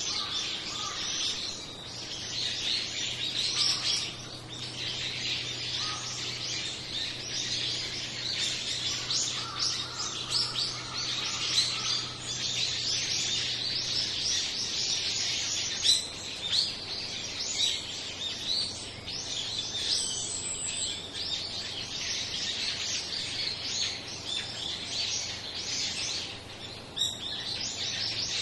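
A flock of small birds chirping, many short, high calls overlapping without pause.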